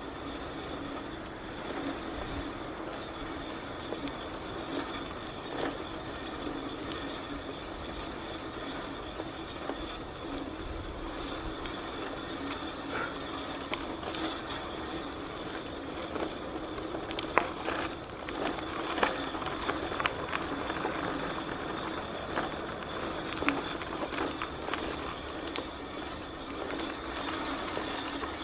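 Steady rolling noise of a bicycle in motion, with scattered clicks and rattles that come more often in the second half.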